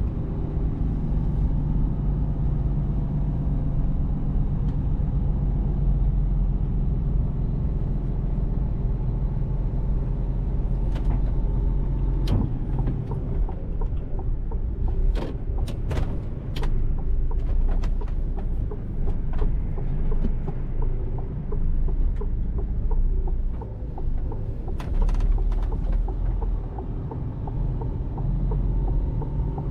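Mercedes-Benz Actros truck's diesel engine running with a steady low rumble while driving. Several sharp clicks or knocks come in the middle.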